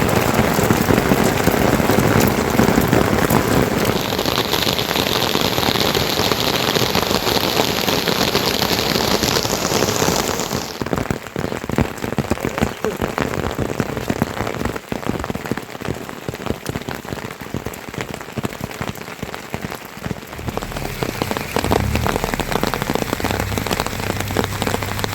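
Rain falling steadily, heavy and dense for about the first ten seconds, then suddenly lighter, with separate drops pattering.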